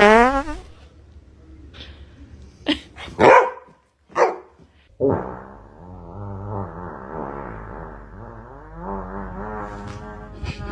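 A dog barking a few short times, then making a long, wavering, drawn-out vocal sound that lasts several seconds.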